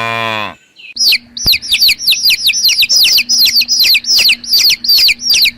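The tail of a cow's moo ends about half a second in. After a brief gap, a bird gives a rapid series of short, high chirps, each sliding downward in pitch, about four a second.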